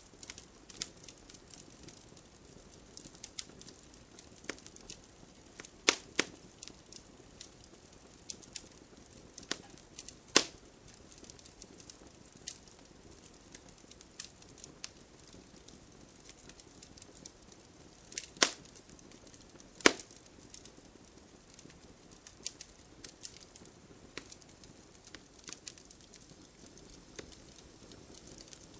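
Wood fire crackling: a steady scatter of small snaps and pops, with four much louder pops standing out, two of them close together in the second half, over a soft steady hiss of rain.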